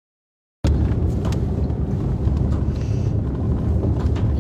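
Dead silence for a moment, then the sound cuts in abruptly as a steady low rumble of a car in motion, with some wind buffeting the microphone.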